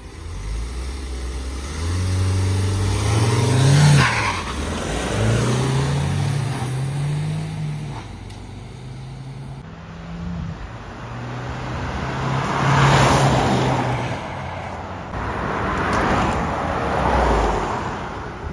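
Mahindra Thar and Hyundai Venue SUVs launching and accelerating hard side by side in a drag race, engine pitch climbing and dropping back several times as they shift up. Later the cars go past at speed twice, with a rush of tyre and wind noise.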